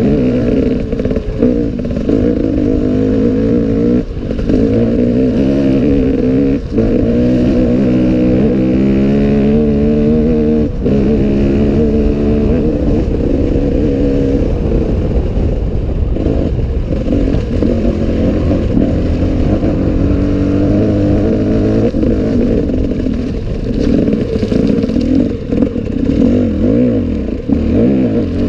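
Enduro dirt-bike engine revving up and down as the bike is ridden along a rough trail, with a few sharp knocks and some clatter from the bike over bumps.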